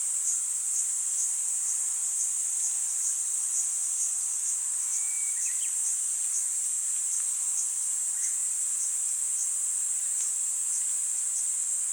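Niiniizemi cicadas (Platypleura kaempferi) buzzing in a continuous, steady, high-pitched drone. A few faint short bird notes come in around the middle.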